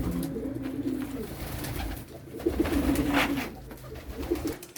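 Domestic pigeons cooing in low, rolling calls, in two spells.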